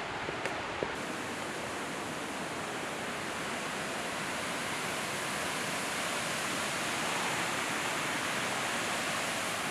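Waterfall rushing: a steady, even roar of falling water that swells slightly in the second half.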